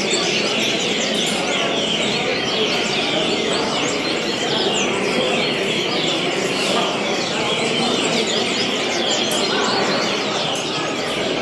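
Double-collared seedeater (coleiro) singing the 'vassourada' song: fast, repeated runs of quick falling notes, continuing without a break, over a steady background hiss.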